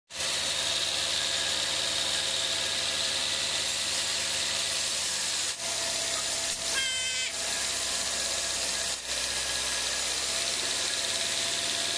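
Sawmill machinery running steadily: a continuous noisy hiss over a low engine hum, with two brief dips in level and a short high-pitched squeal about seven seconds in.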